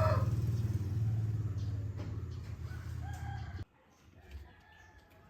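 The tail of a rooster's crow, over a low pulsing rumble that slowly fades and then cuts off abruptly a little over halfway through. After that, only faint bird chirps.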